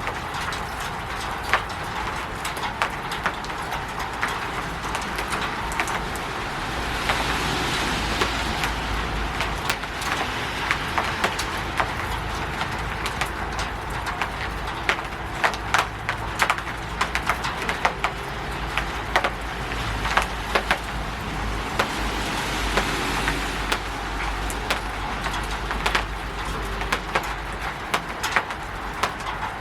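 Rain on a roof: a steady hiss dotted with many sharp drips and taps. Twice it swells into a broader rush with a low rumble underneath, about seven seconds in and again about twenty seconds in.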